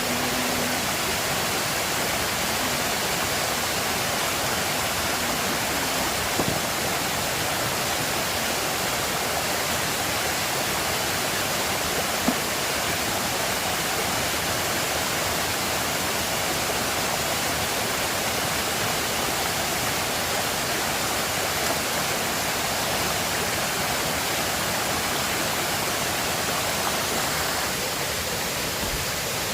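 River water rushing steadily over rocks, an even unbroken roar of flowing water. Two faint clicks, about six and twelve seconds in.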